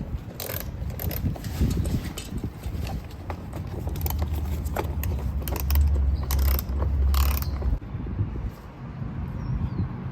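Ratchet wrench clicking as bolts and screws are worked loose from a car's rear bumper, with irregular clicks and knocks of tools and parts.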